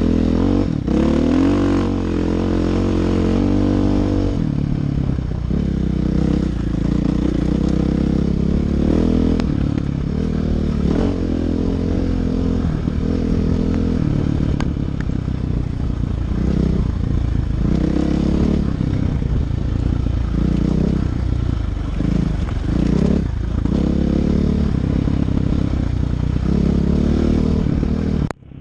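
Dirt bike engine under way on a trail, revving up and easing off again and again as it works through the gears and throttle, with knocks and clatter from the bike over rough ground. The sound cuts out abruptly near the end.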